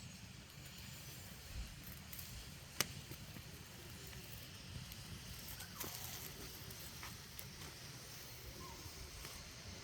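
Wood fire burning under a cast-iron cauldron with a steady hiss and a few sharp crackling pops, the loudest about three seconds in.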